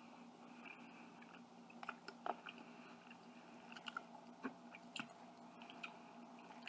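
Faint chewing and mouth sounds of a person eating a mouthful of chicken and rice, with scattered soft clicks of a metal fork against a plastic food container, over a low steady hum.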